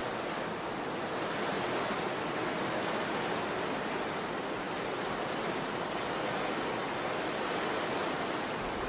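Waterfall rushing: a steady, unchanging rush of falling water with no breaks.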